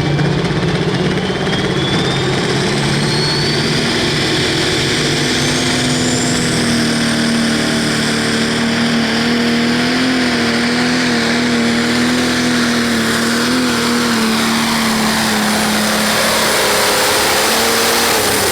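Pro stock pulling tractor's turbocharged diesel engine running hard through a pull. A thin turbo whistle climbs in pitch over the first several seconds. The engine note steps up early and holds, wavering slightly, until it cuts off suddenly at the end.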